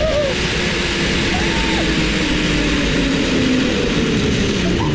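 Wind rushing over the microphone during a zip line ride, with a steady whir from the trolley running along the cable that drops slowly in pitch. A short vocal cry about a second and a half in.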